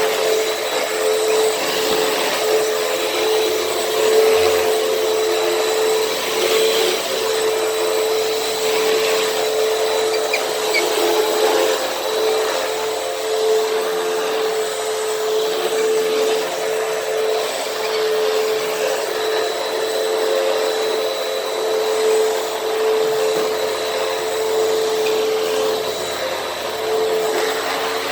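Hoover WindTunnel T-Series upright vacuum cleaner running steadily: a constant motor whine over rushing air, its loudness rising and falling slightly as it works over the floor.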